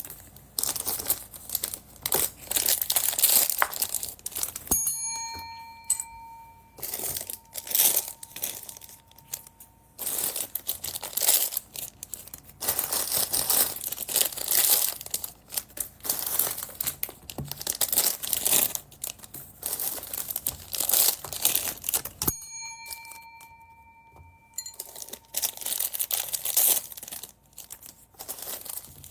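Small plastic bags of beads being crinkled and torn open, in irregular rustling bursts. Twice, about five seconds in and again about twenty-two seconds in, a sharp click is followed by a bright ringing chime that lasts about two seconds.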